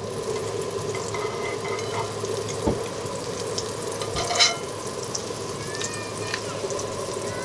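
Food sizzling and frying in a hot pan, a steady hiss that starts suddenly, with a couple of sharp clicks of a utensil or pan about a third and halfway through.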